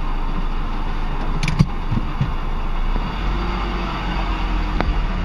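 Car engine running with a low, steady rumble, heard from inside the cabin. The rumble grows a little stronger about three seconds in as the car moves off. A single sharp click comes about a second and a half in.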